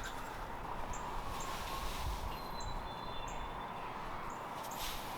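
A small songbird giving short, high chirps, repeated every half second to a second, with a thin high whistled note in the middle, over a steady background hum.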